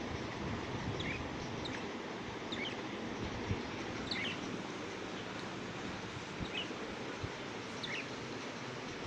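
Budgerigars giving short high chirps every second or so over a steady background hiss.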